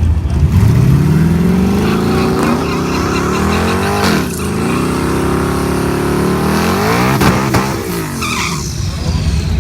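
Twin-turbocharged Ford Coyote 5.0 V8 Mustang accelerating hard at wide-open throttle, pulling up through the gears. The engine note rises steadily, drops abruptly at a shift about four seconds in, climbs again, and drops at a second shift near the end.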